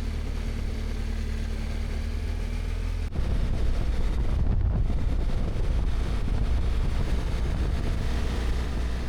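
Motorcycle engine idling steadily; about three seconds in it cuts abruptly to a louder mix of engine and wind noise as the bike rides along.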